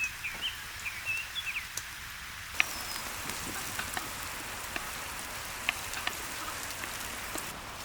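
Diced carrots sizzling in hot olive oil in a cauldron, a steady hiss with scattered pops; the sizzle turns louder and fuller after a sharp click about two and a half seconds in. Birds chirp in the first couple of seconds.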